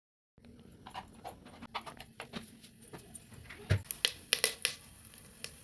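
Scattered clicks and light knocks of kitchen utensils and cookware being handled, with one heavier thump near the middle.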